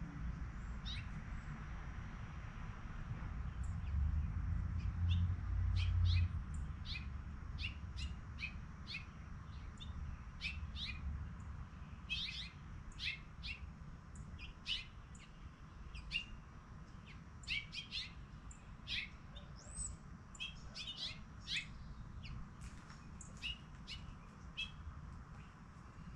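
Small birds chirping in many short, quick calls that come more often after the first several seconds. A low rumble swells under them early on, loudest about five or six seconds in, then fades.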